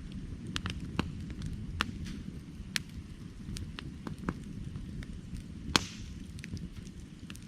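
Firewood burning: irregular crackles and pops over a steady low rumble, with one sharp, louder pop about two-thirds of the way through.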